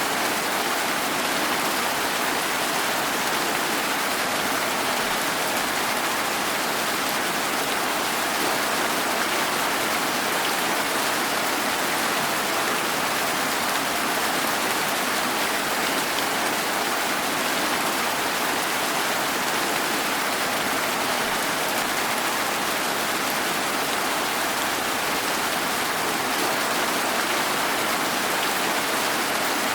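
Steady rain, an even hiss that holds without change, with no single drops, thunder or other events standing out.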